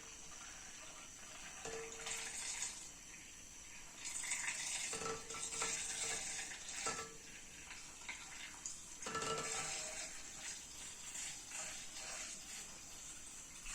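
Handheld coffee milk frother spinning in water, run in several short bursts, each starting with a brief motor hum and followed by swirling, splashing water.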